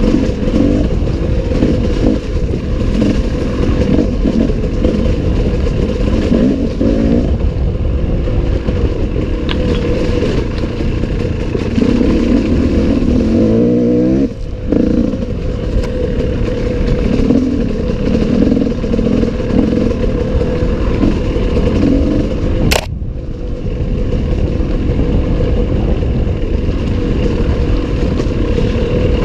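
Enduro dirt bike engine running under load, its revs rising and falling with the throttle. The revs drop sharply about halfway through, and there is one sharp click about three-quarters of the way in.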